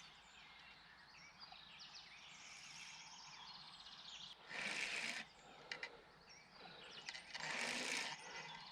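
Faint outdoor background with small birds chirping. Two loud rushes of noise, each about a second long, come at about four and a half and seven and a half seconds in, with a few sharp ticks between them.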